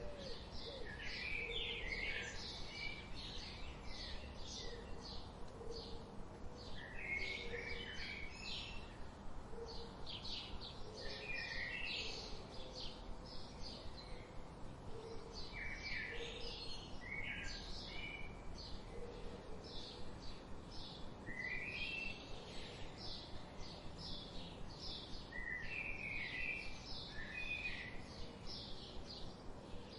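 Songbirds singing: a steady run of short, high chirps throughout, with a warbled song phrase repeating every five seconds or so and faint low notes underneath.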